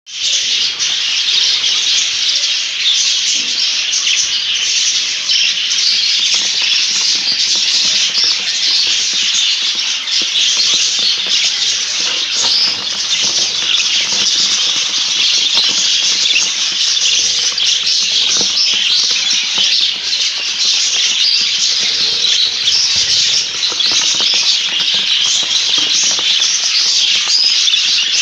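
A flock of budgerigars chattering and warbling continuously, a dense mass of overlapping high-pitched calls.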